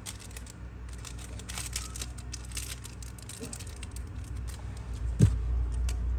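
Zippo lighters being handled: scattered small metal clicks and rustling, with one sharper knock about five seconds in.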